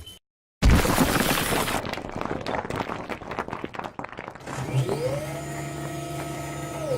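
Cartoon sound effects: a sudden loud breaking crash that crackles away over a few seconds, then a pitched tone that rises, holds and falls over a steady low hum.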